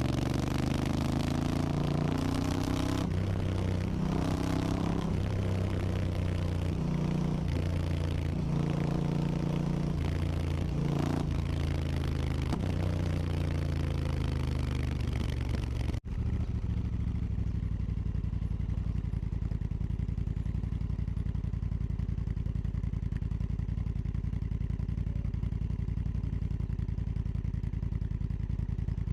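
Honda Africa Twin CRF1000's 998 cc parallel-twin engine through an Akrapovic exhaust, revving up and down through the gears for the first half. After a sudden cut about halfway, the exhaust note holds steady and low.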